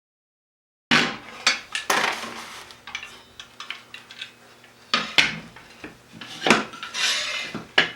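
Irregular metal clinks, clatter and knocks of tools and parts being handled on a workbench while an old circular saw is taken apart. The sounds start after about a second of dead silence.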